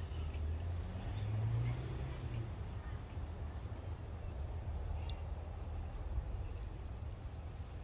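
Crickets chirping in a steady run of evenly spaced pulses over a low background rumble.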